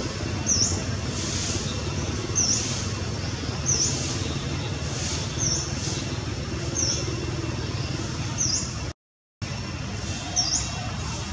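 A small bird repeating a short, high, quick down-and-up chirp about every second and a half over a steady background of low rumble and hiss. The sound cuts out completely for a moment about nine seconds in.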